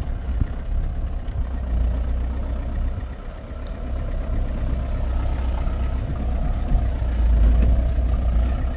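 Steady low rumble of a vehicle's engine and running gear, heard from inside the cabin.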